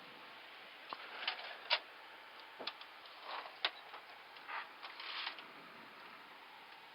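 Scattered sharp clicks and short rustles of switches and items being handled in an Airbus A320 cockpit with the engines shut down, over a steady faint hiss.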